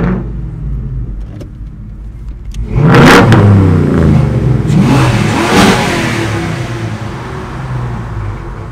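Car engine revving hard over a low running drone. It starts suddenly about three seconds in, with its pitch climbing and falling through a couple of revs, then dies back down.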